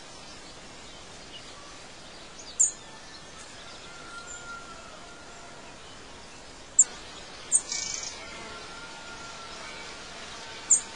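Birds chirping: four short, sharp high chirps spaced a few seconds apart, with faint thin whistles between them, over a steady hiss of outdoor ambience.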